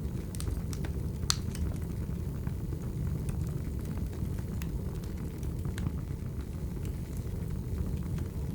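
Wood fire burning: a steady low rumble of the flames with scattered crackles and pops, one sharper pop about a second in.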